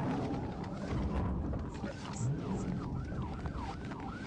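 Police siren in fast yelp mode, its pitch swinging up and down about three times a second, starting about a third of the way in, over a steady low rumble of traffic and engines.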